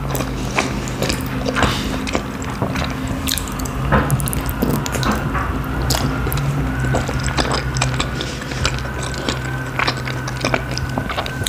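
Close-up wet chewing and lip-smacking of a person eating soft khinkali dumplings in cream sauce, a steady stream of small moist clicks and squishes. A steady low hum runs underneath.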